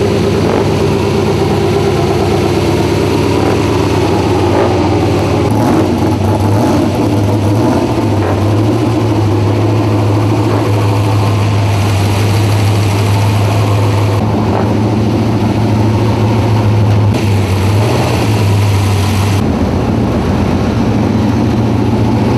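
Race car engine running loudly and steadily, with a low, even tone.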